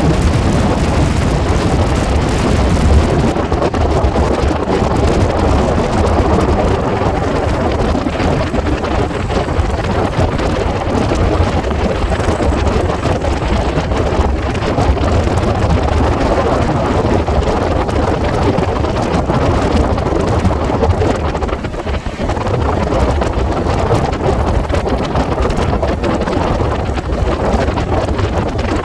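Passenger express train running at speed: wheels on rails and a constant rush of wind over the microphone, with many fine clicks, sped up to double speed.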